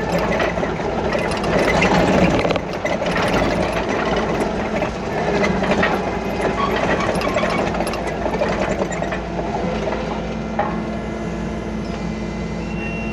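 A vehicle engine running steadily, with scattered light rattles and clicks over it.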